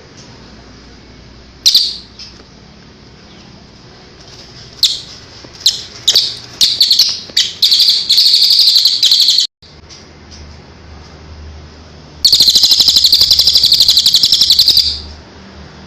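Recorded songbird song: loud, sharp high chirps, single at first and then in quick runs, followed by a fast, even trill of about three seconds, played as tutor song for cage birds.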